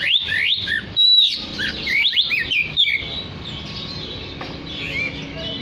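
Oriental magpie-robin singing: a quick run of loud whistled notes sweeping up and down over the first three seconds, then softer, sparser notes.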